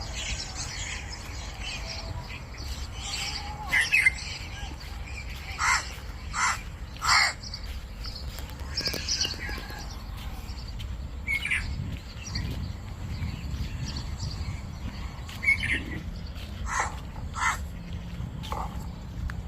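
Forest birds calling: short, loud calls every few seconds, with a run of three close together a little before the middle, over a steady low rumble.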